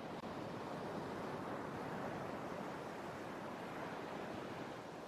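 Sea surf washing steadily, an even, unbroken rush of waves.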